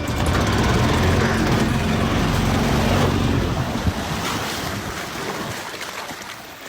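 Wind buffeting the microphone over rushing water around a boat, a dense noisy roar that eases off near the end.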